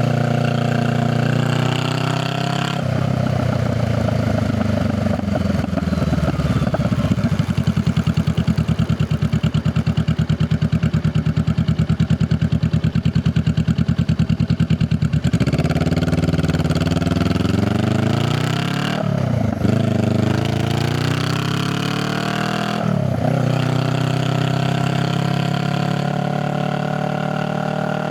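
Honda Rebel 500's parallel-twin engine through its exhaust. It pulls, then drops back to a slow idle with distinct exhaust pulses, then accelerates again through two quick upshifts, each with a brief dip in pitch.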